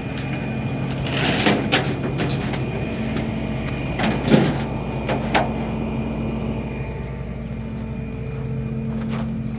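A tow truck's engine running steadily, with a few knocks and clanks over it; the loudest comes about four seconds in.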